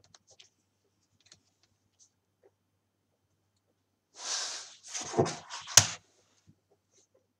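A few faint clicks, then a cluster of short rustling noises about four to six seconds in, ending in a sharp click.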